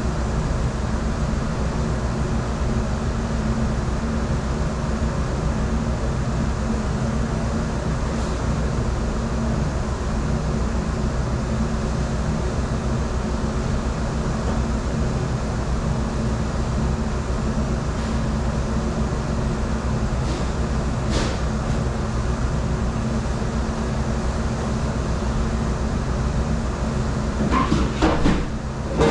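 Steady, loud running of commercial dish-room machinery with a low hum, typical of a conveyor dish machine and its ventilation. A couple of sharp clinks come around two-thirds of the way in, and a burst of clattering knocks comes near the end.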